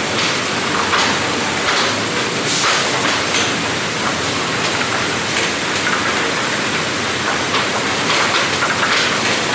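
Wood-processing machinery running: a steady loud noisy hiss with faint irregular clatters.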